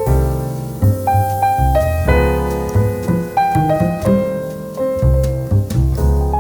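Instrumental music: a piano playing a slow passage over a low bass line.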